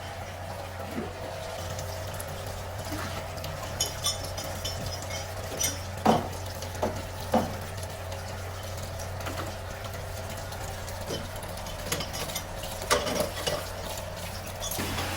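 Steady machine hum with scattered sharp metal clinks and knocks, the loudest about six to seven seconds in and again near thirteen seconds.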